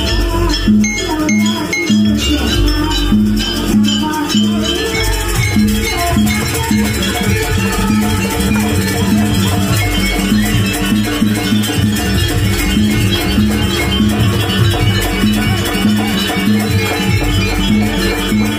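Live jaranan ensemble music playing continuously, with a pulsing percussion beat that repeats about twice a second at first and then grows denser.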